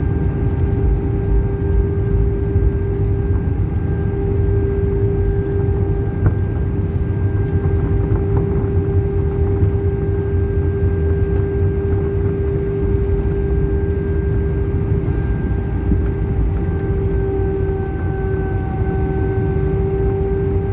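Cabin noise of an Airbus A319 on the ground after landing: a steady low rumble with a steady whine held at one pitch throughout.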